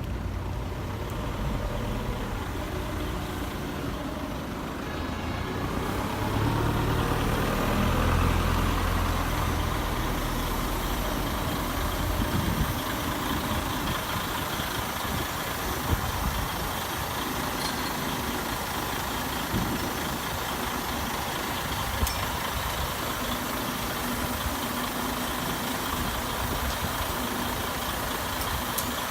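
Heavy diesel engine running at low speed with a steady low drone. It swells louder for a few seconds about a quarter of the way in, then settles back, with a few faint clicks.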